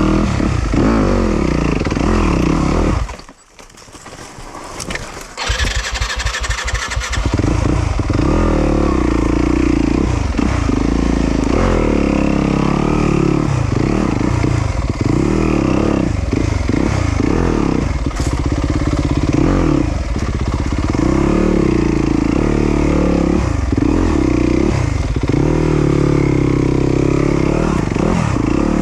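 Yamaha YZ250FX's 250 cc four-stroke single-cylinder engine revving up and down off-road. About three seconds in it cuts out suddenly; after a couple of seconds of quiet it is cranked for about two seconds, catches, and runs on with the throttle rising and falling.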